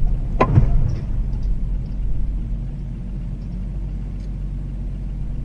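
Steady low rumble of a car on the move, with one brief sharp sound about half a second in.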